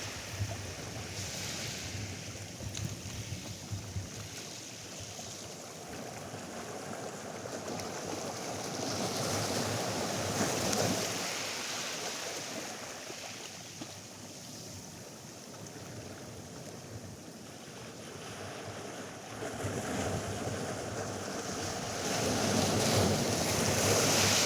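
Atlantic surf breaking on a sandy beach, the wash swelling up and falling away twice, about twelve seconds apart. Wind buffets the microphone throughout.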